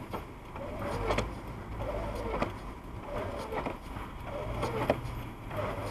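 Windshield wipers sweeping snow off the glass about once every 1.2 seconds, each stroke a short squeak ending in a knock, over the steady low drone of the car's engine and tyres inside the cabin.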